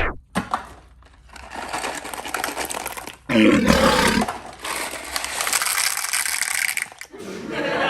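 A toilet flushing: a sudden surge of water about three seconds in, then a steady rush of water, rising again near the end.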